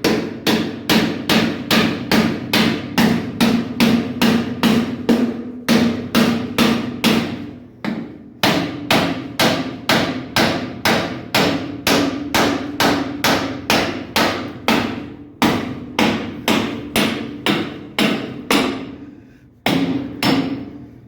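Hammer blows on metal, about two a second, each leaving a ringing tone, with brief pauses about eight seconds in and near the end. The hammering is an attempt to knock loose a heater element whose fittings have rounded off.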